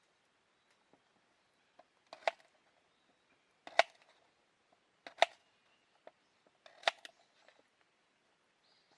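Four sharp knocks, about one and a half seconds apart, each with a brief ring, and faint small ticks between them.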